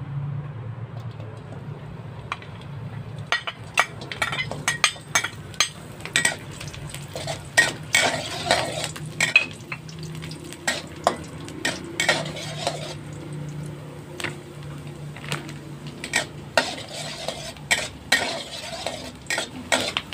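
Sliced petai (stink beans) frying in oil in a wok, with a spatula scraping and clinking against the pan in quick, uneven strokes from about three seconds in.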